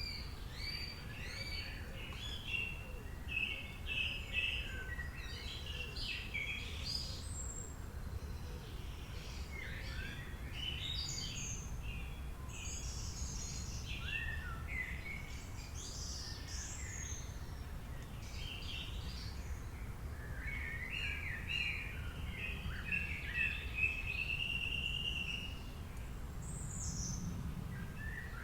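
Several songbirds chirping and singing, with quick whistles and trills and a longer warbling phrase about three-quarters of the way through, over a steady low rumble.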